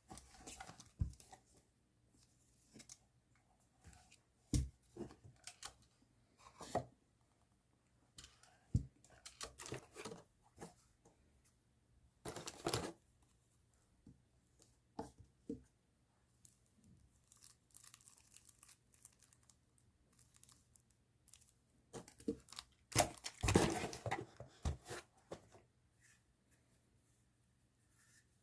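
Stationery packaging being handled and opened by hand: short scattered rustles and taps, with longer stretches of tearing and crinkling about 12 seconds in and again from about 22 to 25 seconds in.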